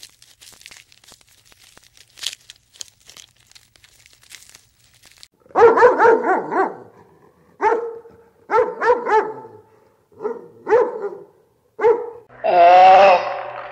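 Shiba Inu dog vocalizing: a run of short barks and yelps, then a longer wavering call near the end.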